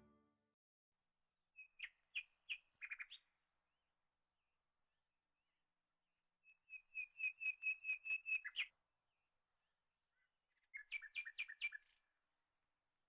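A bird chirping in three bursts of quick repeated high notes, the middle burst the longest at about two seconds, with silence between them.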